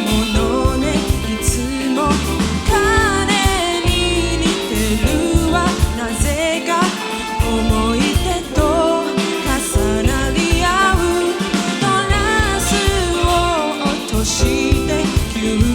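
Live band playing a pop song with a lead vocalist singing over guitar, bass and drum kit.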